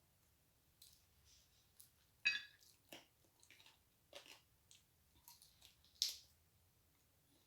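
A person chewing and gnawing on chicken feet, with wet mouth smacks and scattered short crunches and clicks, the sharpest about two seconds in and again about six seconds in.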